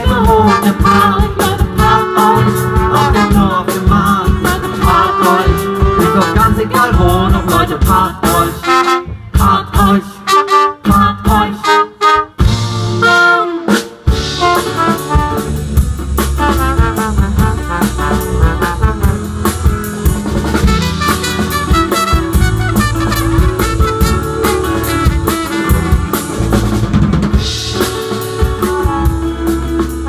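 Live brass band with tuba, trumpet, trombone and saxophone over a drum kit playing an instrumental passage. Between about nine and fourteen seconds in the band plays short stop-time stabs with gaps, then the full band comes back in.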